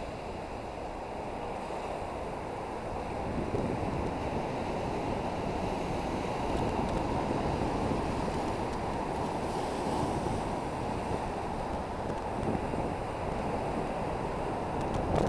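Ocean surf washing against the rocks, with wind buffeting the microphone: a steady rushing noise that swells briefly about two-thirds of the way through.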